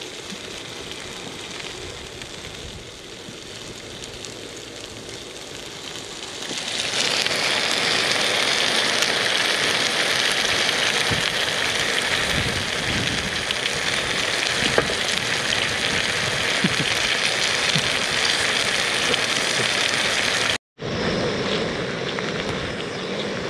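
Gyoza frying in a lidded pan on a camp stove: a steady, loud sizzle that starts about six seconds in, after a quieter stretch of outdoor background. After a short break near the end, the sizzle comes back quieter as seasoned lamb and bean sprouts cook in a pan.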